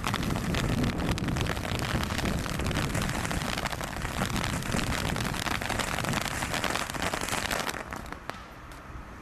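A low-noise garden firework burning with a steady hiss and dense crackle, like a fountain spraying sparks, dying away about eight seconds in.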